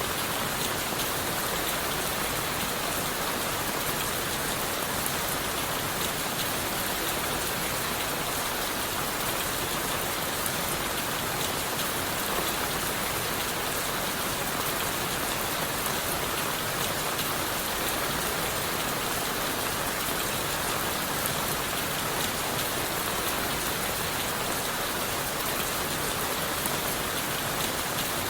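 Steady rain falling in a forest, a constant even hiss with many small drop impacts and no change in strength.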